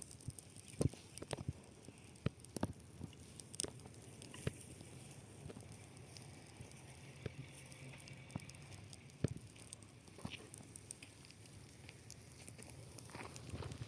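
Burning dry grass crackling, with irregular sharp pops over a faint steady hiss.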